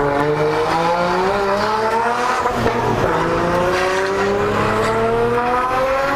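Nissan Skyline R34 GT-R's tuned twin-turbo RB26DETT straight-six at full throttle, the engine note rising steadily as it pulls through the revs, with an upshift about two and a half seconds in and another near the end.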